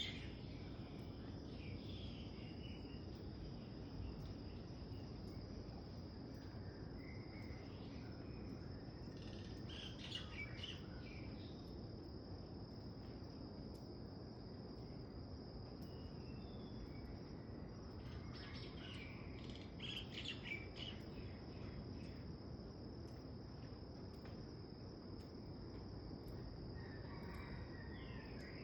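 Morning birdsong: scattered chirps and short song phrases from several birds, busiest about a third of the way in and again past the middle, over a steady high-pitched insect trill and a low background hiss.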